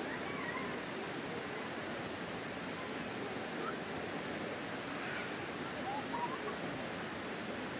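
Wood campfire burning with a steady rushing hiss and an occasional faint crackle, with faint distant voices in the background.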